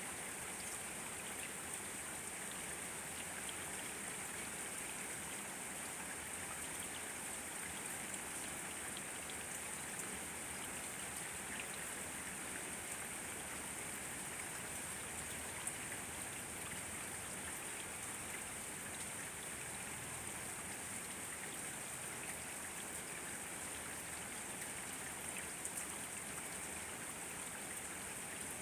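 Steady rain with scattered drops pattering, mixed with running water like a stream. It holds an even hiss with no pauses.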